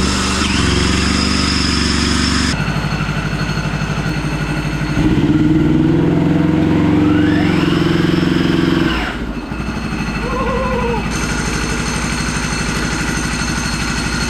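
Yanmar diesel engine of a home-built diesel motorcycle running with an even low beat, heard in several short cuts. It is loudest for a few seconds in the middle, where a rising whine comes in.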